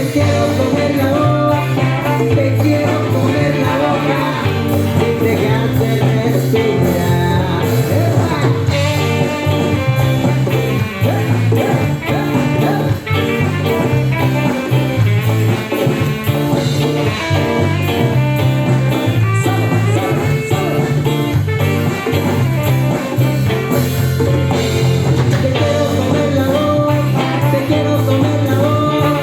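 Live band playing a Latin pop song, an instrumental stretch with guitar over a steady, pulsing bass line.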